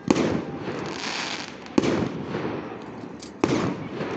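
Aerial firework shells bursting: three sharp bangs about a second and a half apart, each trailing off over about a second.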